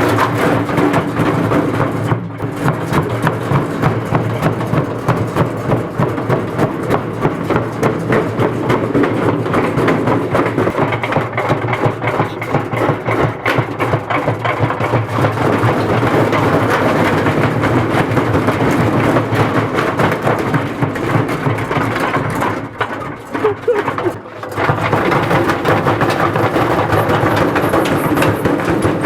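Washing machine shaking itself apart: loud, continuous banging and rattling made of rapid knocks, briefly easing off twice near the end.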